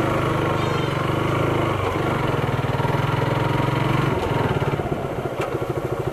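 Motorcycle engine running at low, fairly steady revs while the bike is ridden slowly over a rough, muddy track, its note changing briefly a little after four seconds in.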